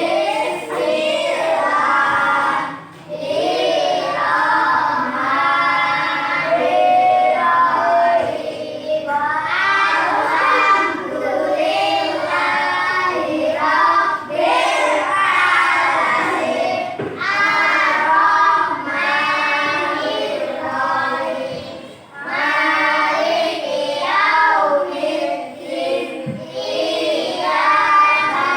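A class of primary-school children reciting a prayer together in unison in a sing-song chant, with short pauses between phrases.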